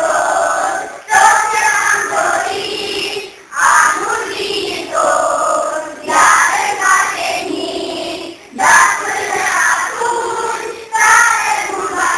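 A group of voices singing together in phrases about two and a half seconds long, each phrase cut off by a short break.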